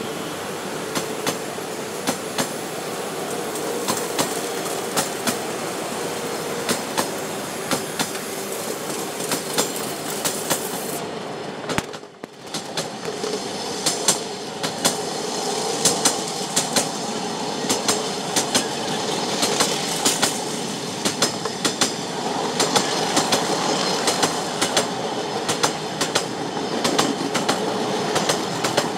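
Passenger coaches of an Indian Railways express rolling past at speed: a steady rumble of steel wheels on rail, broken by sharp clicks from the rail joints. There is a short drop in level about twelve seconds in.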